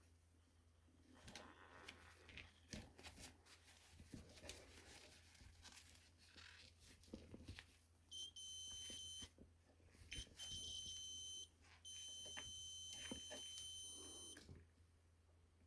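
Homemade continuity tester beeping three times with a steady high tone, the last beep about two and a half seconds long, each beep sounding as the tester's circuit closes through the wire. Light clicking and rustling from handling the wires comes before the beeps.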